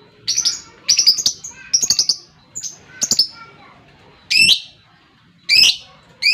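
Lovebird calling in short, shrill chirps about once a second; from about four seconds in the calls grow louder and each sweeps down in pitch.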